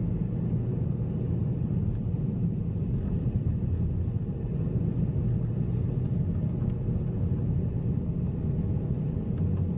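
Car driving on a snow-covered road: a steady low rumble of engine and tyre noise, with a few faint ticks now and then.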